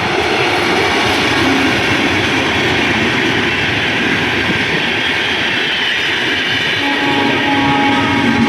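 A train passing close by: a loud, steady rumble and rattle of the wheels and carriages on the rails. A steady held tone comes in about seven seconds in.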